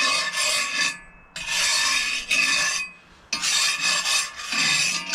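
Loud rasping, rubbing scrapes in four long strokes with short gaps between them.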